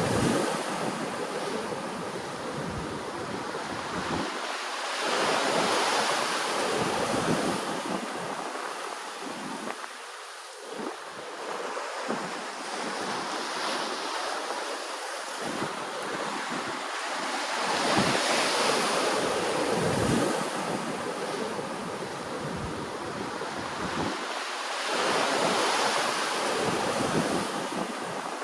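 Ocean waves washing ashore, the surf swelling and fading about every six to seven seconds.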